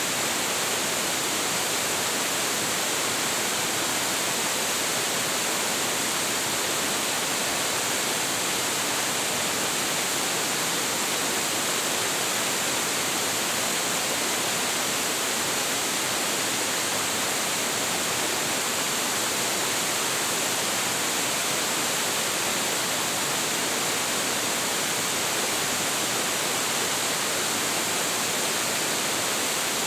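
A large waterfall with a heavy flow, its water falling and crashing in a steady, unbroken rush.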